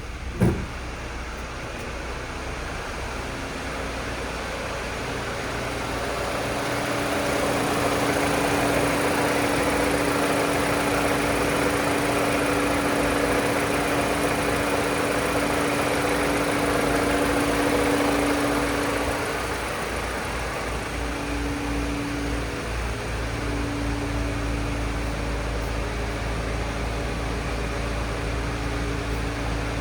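2013 Mini Cooper's 1.6-litre four-cylinder engine running steadily, with a sharp knock about half a second in. The engine sound grows louder from about seven seconds in and eases back around nineteen seconds.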